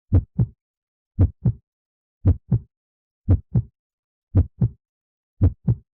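Heartbeat sound effect: six double thumps (lub-dub), one pair about every second, with silence between them.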